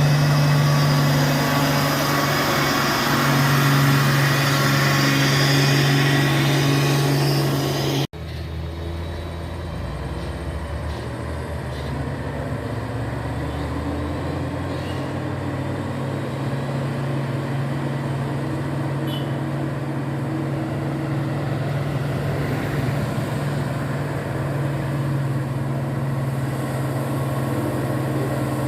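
Truck engine running steadily with a deep hum. About eight seconds in, the sound cuts off abruptly, and a quieter engine sound carries on to the end.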